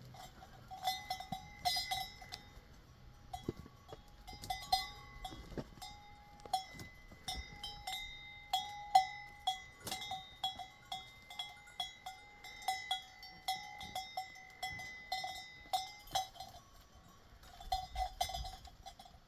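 A metal livestock bell clanking irregularly, about two or three strikes a second, each with a ringing tone. It stops about sixteen seconds in and rings briefly again near the end.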